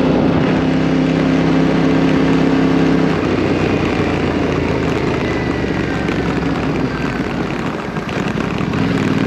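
Motorcycle engine running at a steady pitch, with the tone dropping away about three seconds in, leaving a rougher rushing sound, and coming back just before the end.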